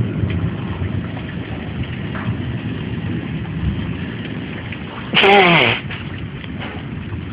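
Steady rain hiss, with one loud nose blow about five seconds in: a short honk that falls in pitch.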